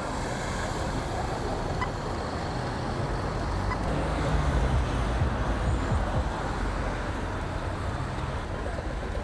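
Street traffic: steady road noise with a vehicle's engine hum, loudest about four to six seconds in as it passes.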